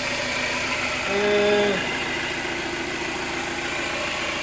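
Citroën Berlingo engine idling steadily while warming up, with the thermostat not yet open.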